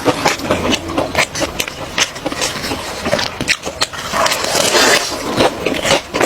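Close-miked eating of mie ayam bakso (chicken noodles with meatballs): wet chewing with many short clicks and smacks.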